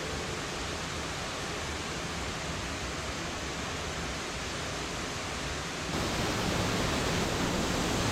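Waterfall water rushing: a steady, even roar of falling water that grows louder and brighter about six seconds in.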